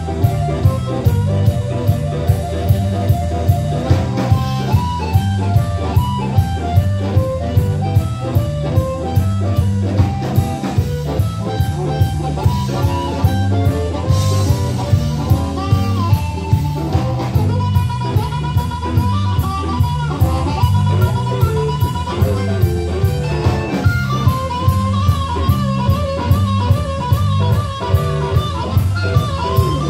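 Live blues band playing: a guitar melody over bass and a drum kit keeping a steady beat of about two hits a second.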